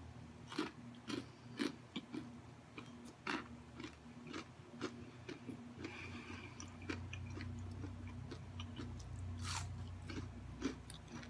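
Close-miked chewing of crunchy coconut-breaded fried shrimp: a steady run of crisp bites and crunches, about two a second.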